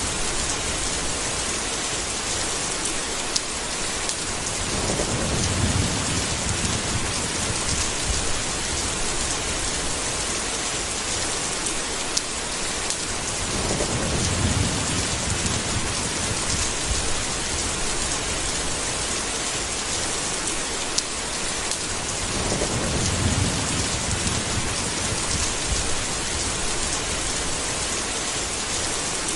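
Steady heavy rain hissing, with scattered louder drops. Three low rolls of thunder rumble about nine seconds apart, each lasting two to three seconds.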